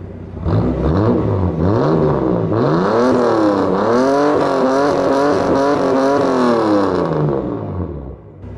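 Toyota Cressida MX73's straight-six engine running and being revved repeatedly, the pitch rising and falling several times over, then settling back near the end.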